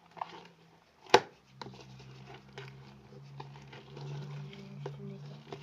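Sticky homemade glue-and-borax slime being squeezed and pulled in the hands, with scattered small wet clicks and one sharp snap about a second in. A steady low hum runs under it.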